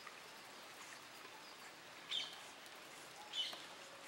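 Two short bird chirps, about two seconds and three and a half seconds in, over faint steady outdoor background noise.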